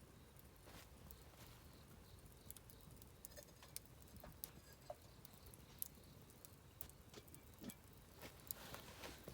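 Wood campfire burning quietly, with scattered crackles and small pops that come more often in the second half.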